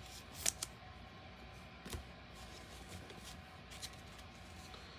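Baseball trading cards being handled: a few faint, short rustles and clicks as cards slide against one another.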